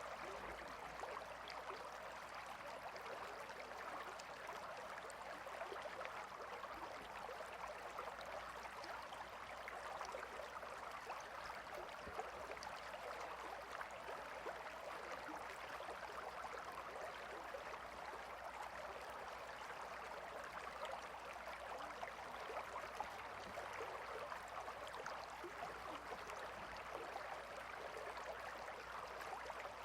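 A gentle river flowing, a steady soft rush and babble of water without a break.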